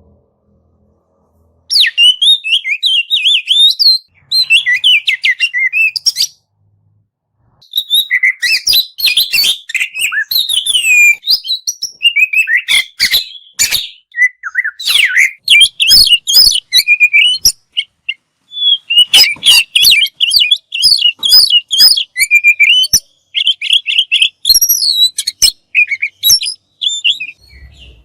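Oriental magpie-robin (kacer) singing a loud, rapid, varied song of whistled phrases with sharp clicking notes mixed in. It begins after a short silence and pauses for about a second and a half a quarter of the way in.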